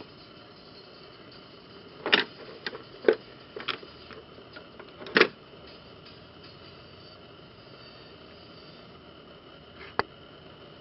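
Hand tools and car parts knocking and clicking as they are handled during engine-bay work: a cluster of sharp clicks and knocks between about two and five seconds in, and one more near the end. A steady faint hiss and high tone run underneath.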